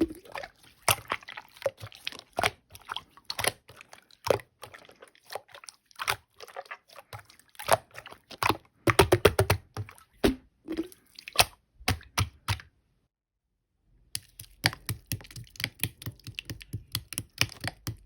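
Stretchy clear red slime being squeezed, folded and stretched by hand, giving rapid sticky clicks and pops in irregular clusters, with a silent break of about a second roughly two-thirds of the way through.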